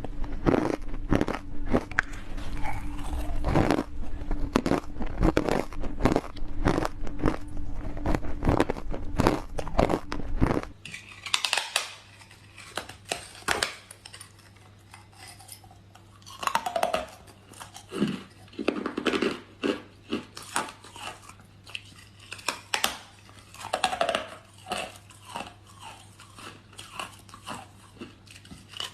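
Close-miked ice being bitten and chewed: dense, loud crunching for about the first ten seconds. It then changes abruptly to quieter, sparser single bites and crunches.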